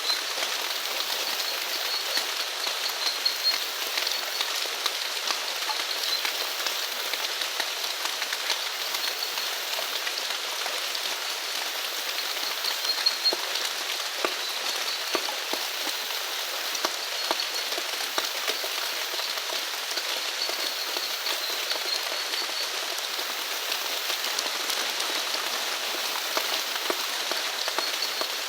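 Steady rain falling on surfaces, with many individual drops pattering close by. A faint high chirping animal call recurs every second or two behind it.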